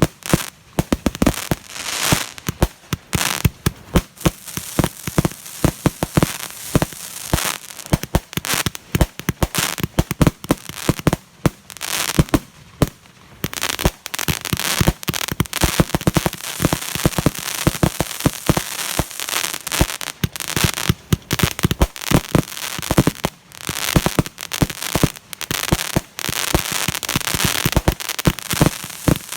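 Fireworks going off in a dense, continuous stream of sharp pops and crackles, many a second.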